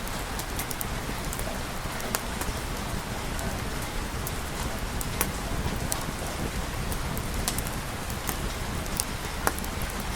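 Steady rain falling, an even hiss, with scattered sharp ticks and pops every second or so.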